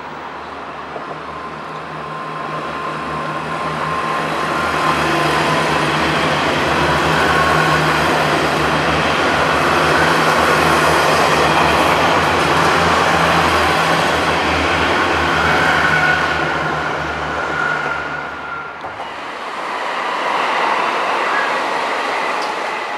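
Taiwan Railways express train passing on the main line, a steady low engine hum with the rush of wheels on the rails that builds over the first five seconds and holds for about ten more. About 19 seconds in, a cut brings a second train passing.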